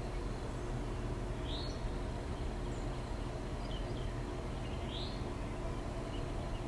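Backyard birds giving a few short, high chirps, two of them sweeping upward, over a steady low background rumble and hum.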